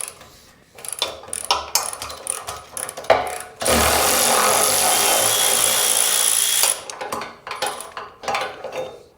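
Metal parts clanking and knocking, then a power tool running steadily for about three seconds, then more clanks: parts being removed from a bare truck frame.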